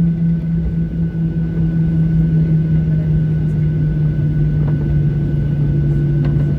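Cabin noise inside a Boeing 737-800 airliner: its CFM56 jet engines drone steadily with a low rumble and a strong low hum that sinks slightly in pitch.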